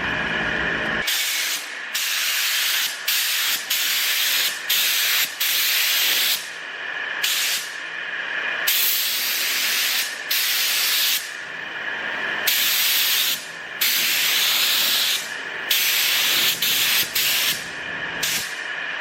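Compressed air hissing from an air-powered paint spray gun, triggered in about a dozen on-off bursts of a second or two each, as clear coat is sprayed.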